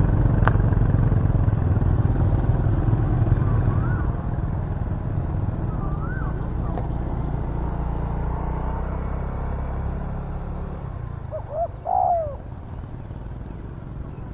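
A spotted dove gives a short cooing phrase about twelve seconds in, over the low rumble of a vehicle engine that fades away during the first ten seconds; fainter bird chirps come earlier.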